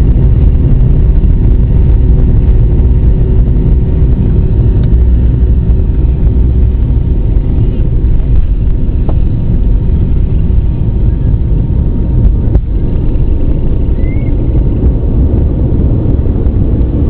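Airliner's jet engines at takeoff power: a loud, steady low rumble with a few faint steady tones above it.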